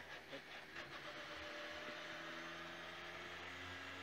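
Rally car's engine running steadily and faintly at low revs, heard from inside the cabin, its pitch creeping up slightly after about a second.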